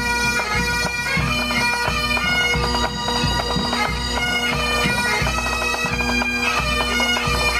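Background music: a bagpipe melody over a steady drone, with a regular drum beat underneath.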